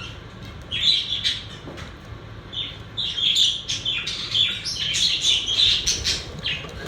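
Pet budgerigars chirping and chattering in quick, irregular bursts of short calls, over a low steady hum.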